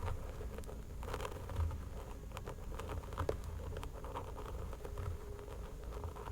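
Fingernails scratching a person's hair and skin: soft, irregular scratching and rustling with many small clicks.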